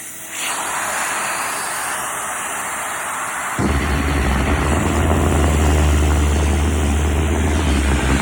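Vacuum cleaner running with a steady rushing suction noise; about three and a half seconds in it gets louder and a deep hum comes in.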